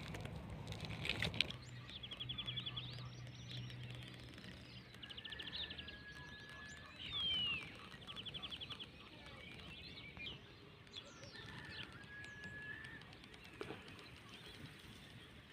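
Wild birds singing: several short, rapid trills repeated every few seconds, a few drawn-out whistled notes, and one louder down-slurred call about seven seconds in.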